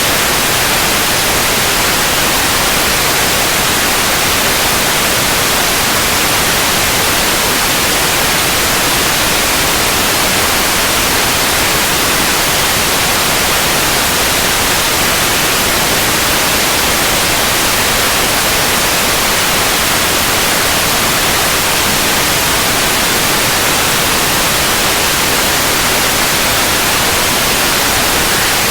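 Steady, unbroken white noise: an even hiss with no changes.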